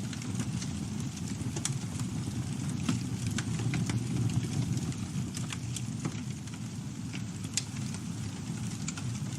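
Campfire burning: a steady low rumble of the flames with frequent sharp crackles and pops from the burning wood, scattered at irregular moments.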